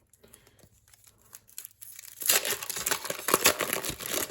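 A trading-card pack wrapper being torn open and crinkled by hand: a few soft handling ticks, then loud crackling starting about two seconds in.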